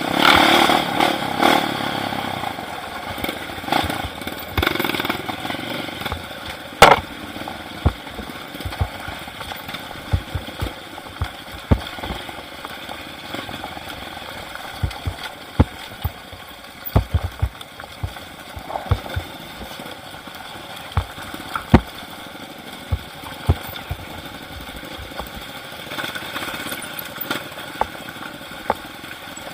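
Motorcycle engine running steadily, with many sharp knocks and clicks through it.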